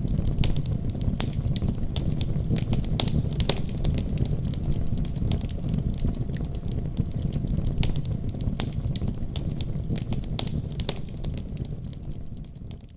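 Wood fire burning in a fireplace: a steady low rumble of flames with frequent sharp, irregular crackles and pops, fading away near the end.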